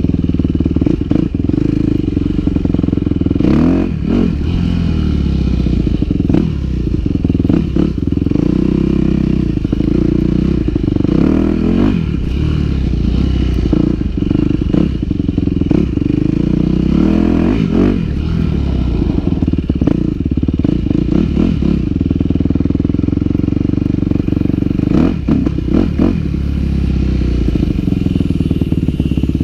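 Yamaha WR250F's 250cc four-stroke single-cylinder engine being ridden on a dirt trail, revving up and easing off several times as the rider accelerates and shifts.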